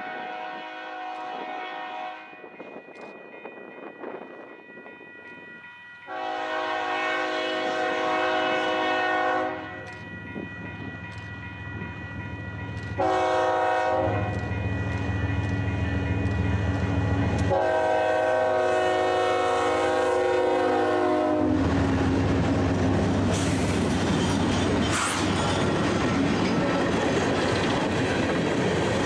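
A BNSF freight train's air horn sounding the grade-crossing signal: two long blasts, a short one and a final long one, with the diesel engines growing louder between them. Near the end the GE ES44DC and ET44C4 locomotives pass close by, and the empty coal hopper cars follow, rumbling and clattering over the rail joints.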